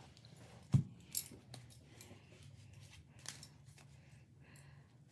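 Tarot cards being handled and laid on a table: a few light taps and clicks, the sharpest just under a second in.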